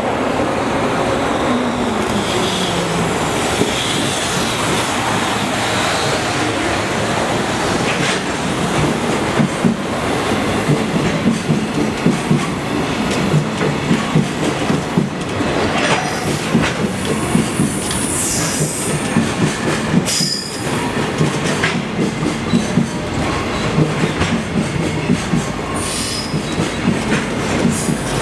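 Freight container train running past close by, its wagon wheels clacking over the rail joints in a steady rhythm, with a high wheel squeal in the second half.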